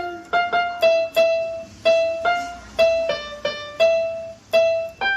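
Electronic keyboard playing a simple single-note melody, about fifteen notes in a steady, unhurried rhythm, ending on a higher held note that rings out.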